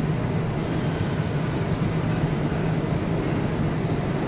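Steady low drone with a constant hum from an express train standing idle at the platform.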